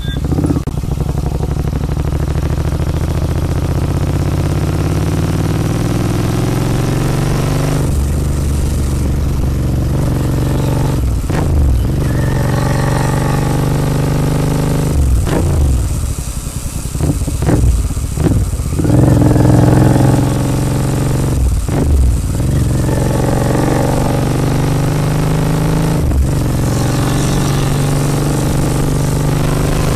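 Royal Enfield Continental GT 650's 648 cc parallel-twin running through a Red Rooster aftermarket exhaust while riding. The engine note rises and falls with several gear changes and throttle lifts through the middle of the stretch, then settles into a steady cruise.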